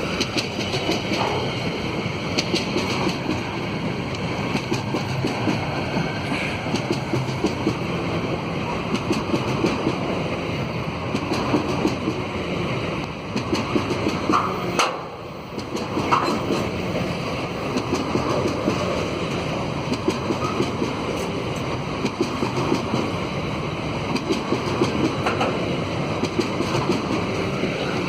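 A long train's wagons rolling past, their wheels clacking steadily over the rails, briefly quieter about halfway through.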